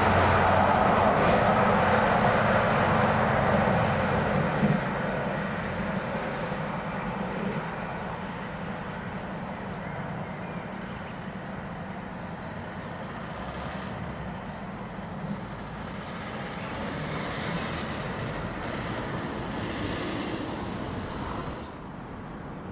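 A train passing through a station. Its engine drone and rail noise are loud at first and fade away over the first several seconds as it recedes. A softer running rumble carries on, swells a little, then drops off sharply near the end.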